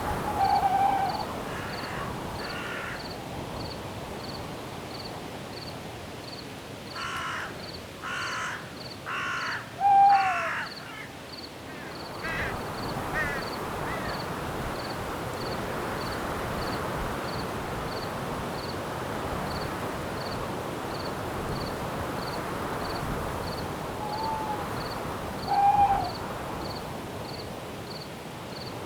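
Night forest ambience: a cricket chirps steadily, a little under twice a second. About seven seconds in a bird gives four harsh caws about a second apart, and a few short mid-pitched calls come near the start and again later. A hiss like wind in the trees rises through the second half.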